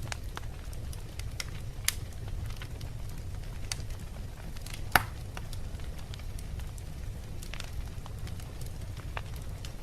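Wood fire burning in a fireplace: a steady low rumble of flames with scattered sharp crackles and pops from the logs, the loudest pops about two and five seconds in.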